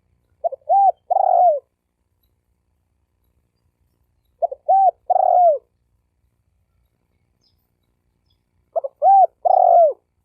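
Spotted dove cooing: three phrases about four seconds apart, each a couple of short clipped notes followed by two longer, drawn-out coos.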